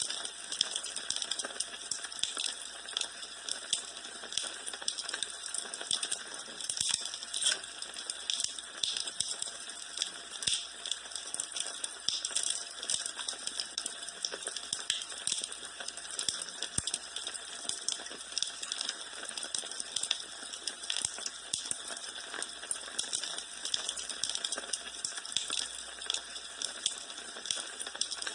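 Wood fire in a fireplace crackling steadily: a constant stream of small snaps and pops over a soft hiss.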